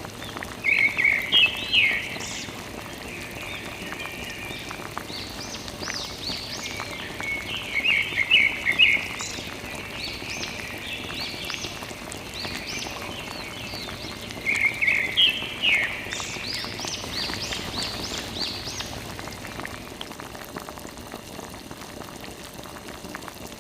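Three bouts of quick, high, repeated chirping calls over a steady rain-like hiss.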